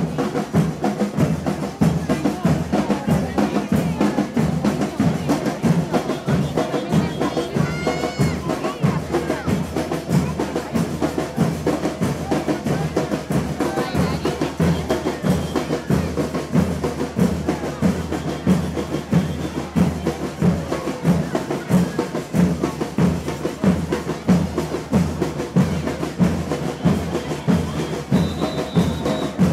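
Carnival murga drums, bass drums and snares, playing a steady, driving beat, with voices from the group and crowd underneath.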